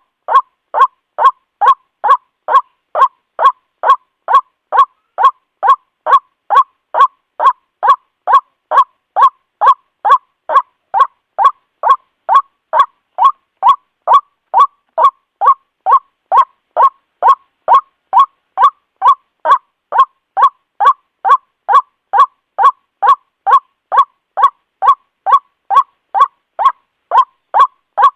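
White-breasted waterhen calling: a harsh, nasal 'ruak' note repeated very evenly about twice a second. This is the loud lure call used to draw waterhens in.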